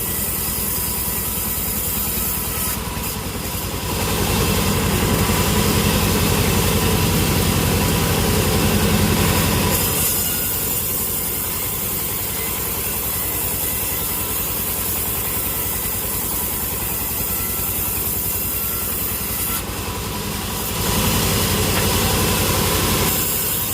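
Sawmill machinery running with a steady engine-like drone. It grows louder from about four to ten seconds in and again briefly near the end.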